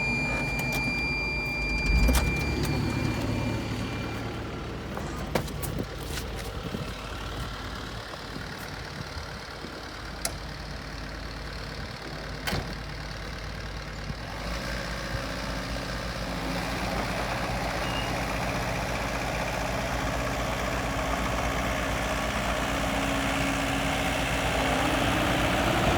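JCB 85Z-1 midi excavator's diesel engine running steadily, with a steady high electronic beep for the first few seconds and a few sharp clicks. From about halfway the engine noise rises gradually.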